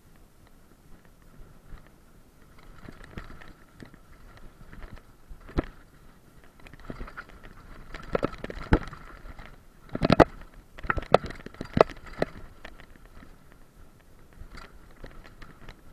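Irregular crunching, scraping and knocking, loudest in a cluster of sharp knocks about ten to twelve seconds in, over a faint steady high tone.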